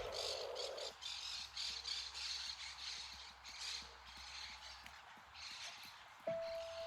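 Faint birds calling outdoors, a run of short squawky chirps several times a second at uneven spacing.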